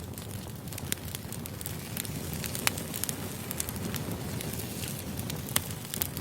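Firewood burning: a steady low rush of flames with sharp crackles and pops scattered irregularly through it. The loudest pops come about two and a half seconds in and again near the end.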